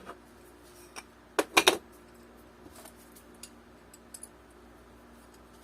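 Small hardware and tools being handled during assembly: a quick cluster of three or four loud clicks and clinks about a second and a half in, then scattered light ticks.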